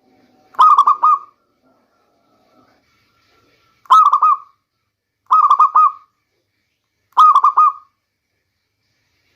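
Local zebra dove (perkutut) cooing: four short phrases of a few quick coos each, about half a second long, spaced one to three seconds apart.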